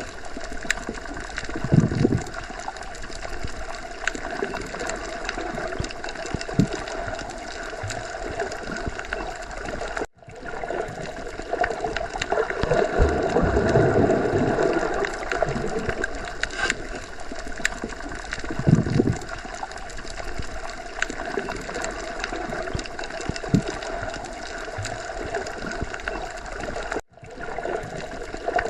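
Underwater ocean ambience: a steady, muffled wash of water noise with occasional deeper swells. It cuts out for an instant twice, about ten seconds in and near the end.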